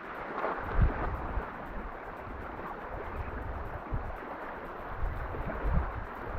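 Wind buffeting the microphone in uneven gusts, with a few low thumps, over a steady wash of sea water.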